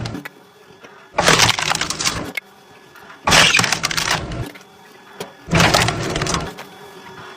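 Firewood being split by machine: wood cracking and breaking apart in three bursts about a second long, roughly every two seconds.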